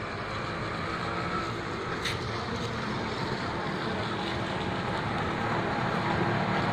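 An engine running steadily, slowly growing louder, with a short click about two seconds in.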